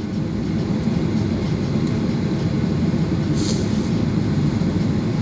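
Cabin noise inside a Boeing 737-800 on the ground before takeoff: a steady low rumble from its CFM56 engines and the rolling airframe. A brief hiss comes about three and a half seconds in.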